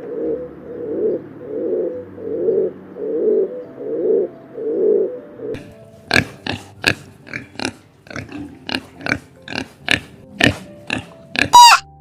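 Animal calls: about seven low, rough grunting calls in a steady rhythm for the first five seconds, then a quick series of sharp, short calls, and a higher pitched call near the end.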